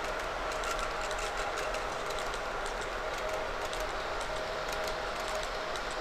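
HO scale model trains running on the layout: a steady electric whine with light, irregular clicking of small wheels on the track.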